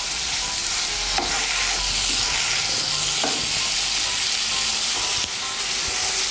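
Spiced cauliflower and potato pieces sizzling in oil in a nonstick kadai over high heat, a spatula stirring and scraping them around the pan. The sizzle is a steady hiss.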